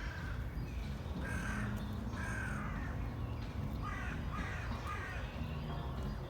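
A crow cawing: several harsh caws in two groups, about a second in and again about four seconds in, over a steady low rumble.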